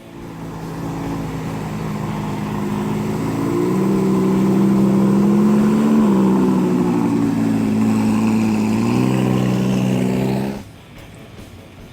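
A car engine running loudly, its note rising about four seconds in, dipping around six seconds and climbing again near nine seconds, then cut off abruptly.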